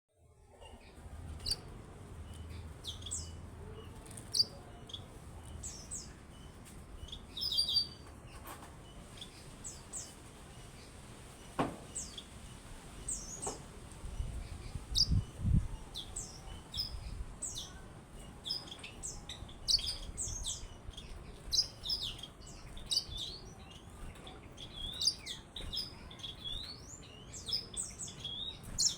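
Yellow-fronted canary (Mozambique canary) singing: short, high chirps and quick trilled phrases, sparse at first and coming faster and denser in the second half.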